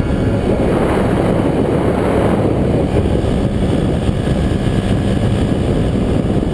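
Paramotor engine running in flight, heard as a loud, steady, rough rumble with wind on the microphone.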